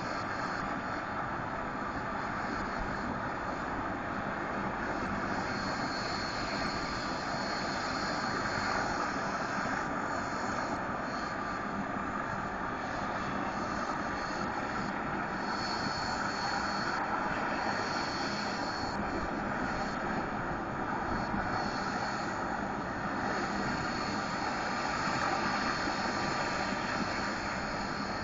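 Medical helicopter's turbine and rotor running steadily, an even, unbroken noise with no clear change in pitch.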